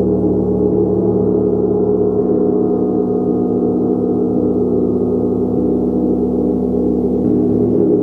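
Gong sounding a sustained, dense wash of many overlapping tones, steady in level, with no separate strikes standing out.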